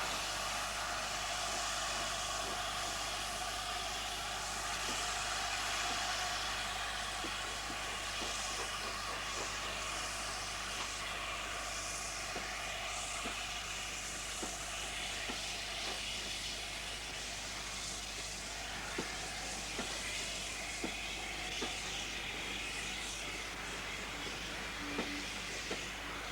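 LNER A4 Pacific steam locomotive on the move: a steady hiss of steam and running noise, with scattered light clicks in the second half.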